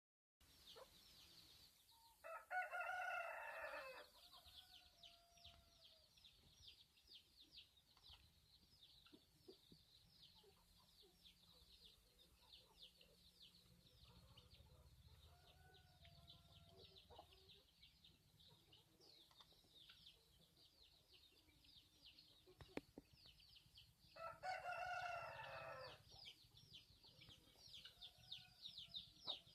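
Country (nattu koli) rooster crowing twice, about twenty seconds apart, each crow under two seconds long. Between the crows there are softer clucks from the flock. A constant dense, high chirping runs underneath throughout.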